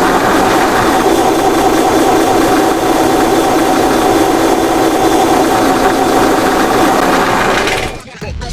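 Long drawn-out wet fart sound, a steady buzzing tone that cuts off near the end.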